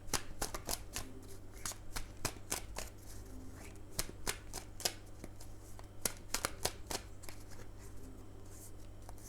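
A deck of tarot cards being shuffled by hand: an irregular run of short card snaps and slaps, several a second.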